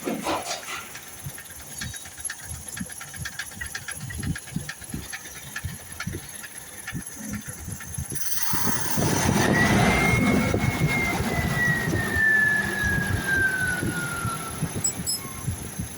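A vehicle engine running with uneven low knocking. About eight seconds in a louder rush of engine noise takes over, carrying a whine that slowly falls in pitch.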